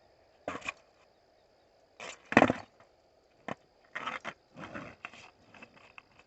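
Skateboard clattering on hard ground: a couple of knocks, then a hard double crack of board pop and landing about two seconds in, followed by more rattling knocks as the board rolls and hits.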